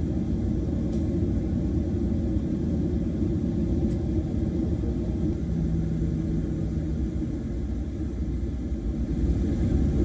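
Steady low rumble, with a faint hum in the middle for about two seconds.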